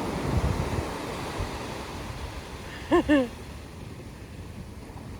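Wind on the microphone and sea water on a kayak outing, a steady rushing noise that eases after about a second and a half. A brief two-note voice sound comes about three seconds in.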